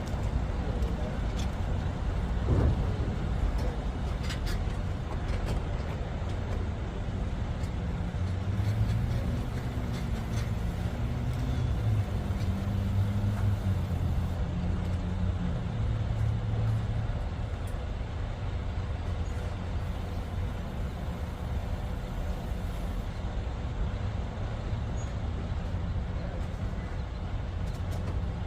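Car driving along: steady engine and road noise, a low rumble, with the engine note climbing and shifting in pitch for several seconds around the middle.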